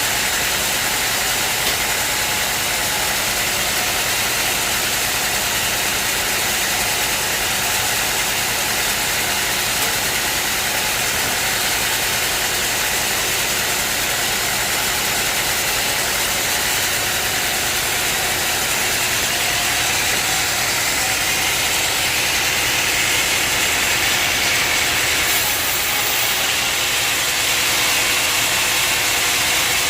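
Sawmill machinery running steadily, a continuous mechanical drone with a strong hiss and no breaks.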